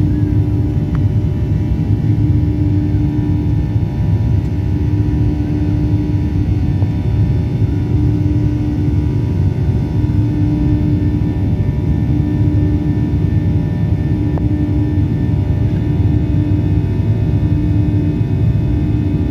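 Steady aircraft engine and airflow drone as heard inside a passenger plane's cabin in flight, low and loud, with a humming tone that swells and fades about every two seconds.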